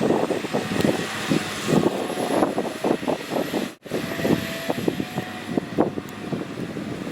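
Vehicle engine noise with an irregular chatter of short pulses, broken by an abrupt cut about a third of the way through.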